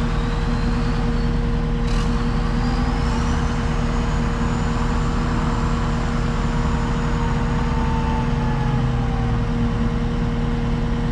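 Skid steer engine running steadily at idle, a constant low hum, with a faint high whine that rises about two seconds in and then holds.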